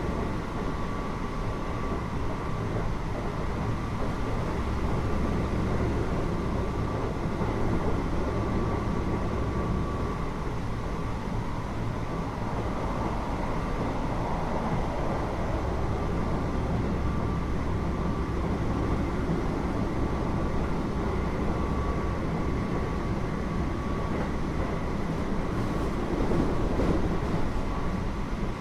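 Interior running sound of a Keio 8000 series electric train with a Hitachi GTO-VVVF inverter, heard from the car carrying the main controller: a steady rumble of wheels and running gear with a faint, constant whine.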